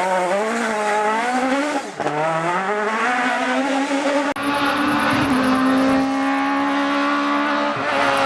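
Rally kit car engine at full effort, its pitch climbing and dropping with quick gear changes, then after an abrupt cut about four seconds in the engine is held at a steady high rev for several seconds.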